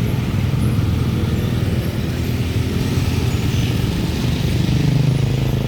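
Large truck engine running close by, with its low engine note growing stronger about five seconds in.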